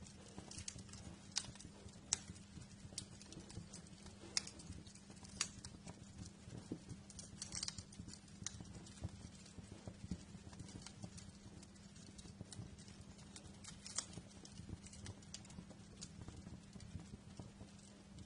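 Wood fire crackling in a fireplace: irregular sharp snaps and pops, a few louder ones, over a low steady hum.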